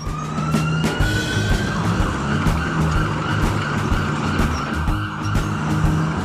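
Cartoon vehicle sound effects: a steady engine-like rumble with a rising whine over the first second and a half, set over rhythmic background music.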